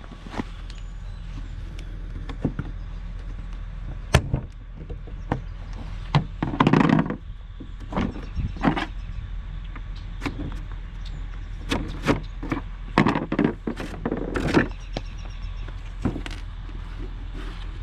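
Irregular knocks, clicks and scrapes of hard objects being handled, with a few longer scraping stretches, over a steady low hum.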